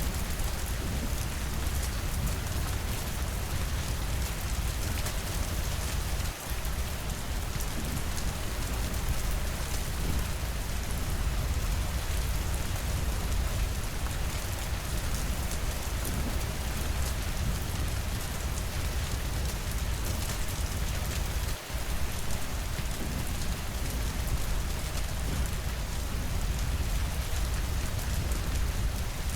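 Steady rainfall with a deep low rumble underneath, the sound dipping for a moment twice.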